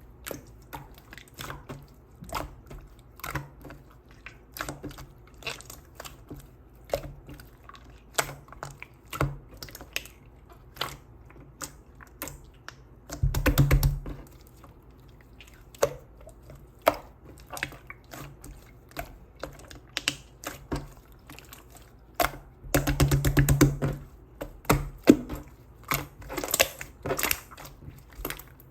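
Slime being squeezed and poked by hand: a run of sharp, wet clicks and pops, with two longer spells of rapid crackling about 13 and 23 seconds in.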